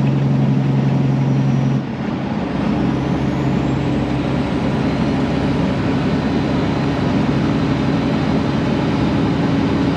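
Truck's 12.7-litre Detroit diesel engine running at road speed under steady drone. About two seconds in, the sound dips briefly and the engine note changes, then runs steady again.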